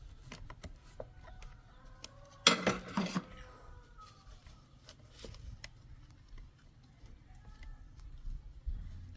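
Small metal tools and parts clinking and knocking, with one louder metallic clatter about two and a half seconds in that rings briefly.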